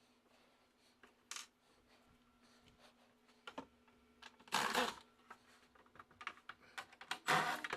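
Scattered light clicks and knocks of plastic parts being handled inside an ice machine, with two louder scraping rustles, about halfway and near the end, over a faint steady hum.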